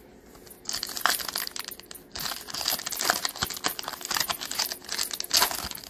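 Crinkling and tearing of a trading-card pack's wrapper as it is opened. It is a dense crackle that starts about half a second in and stops near the end.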